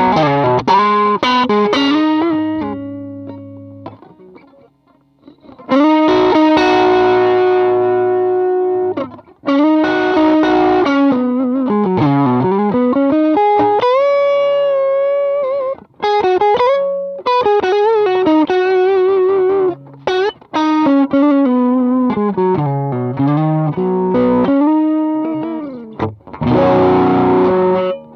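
Electric guitar played through a Zendrive-style overdrive pedal: a ringing chord that fades out, then single-note lead phrases with bends, in a mildly distorted tone.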